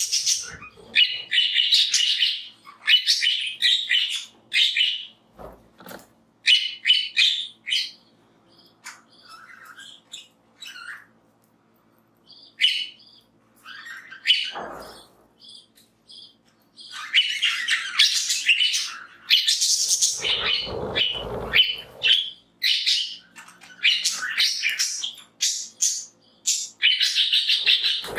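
A flock of budgies (budgerigars) chirping and chattering in quick bursts, with short pauses between them. A couple of duller, lower noises come about halfway and two-thirds of the way through.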